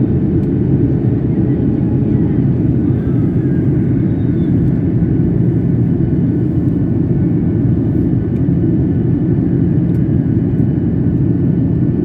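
Steady low rumble of an airliner's engines and rushing air, heard from inside the passenger cabin.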